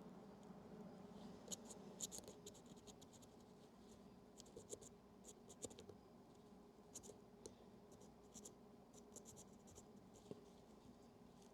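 Faint, irregular scratching and scraping in short bunches as oxidation is scrubbed off the corroded battery compartment and positive terminal of a Yashica Electro 35 GSN camera.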